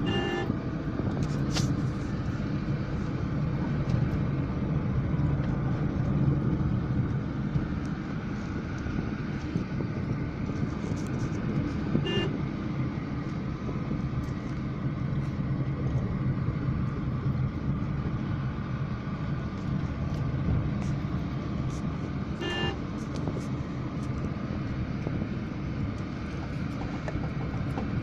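Steady road and engine rumble of a moving vehicle, with three short horn toots: one right at the start, one about twelve seconds in and one about twenty-two seconds in.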